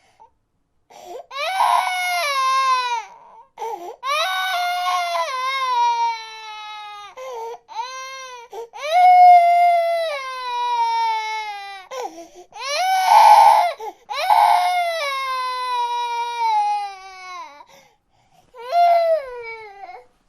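A baby crying: a run of loud wailing cries, each sliding down in pitch, some a second long and some several seconds, with short gaps between them.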